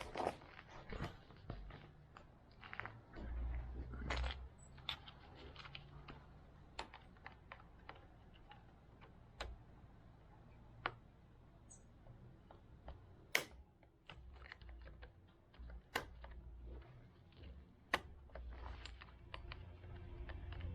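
Irregular clicks and light taps of small metal parts being handled during hands-on work on a motorcycle's front brake and wheel, with a few sharper single clicks in the second half.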